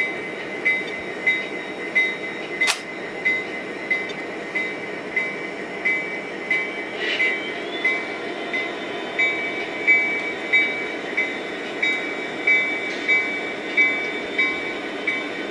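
Model trains running on the layout: a steady rumble with a regular beat about one and a half times a second, and one sharp click about three seconds in.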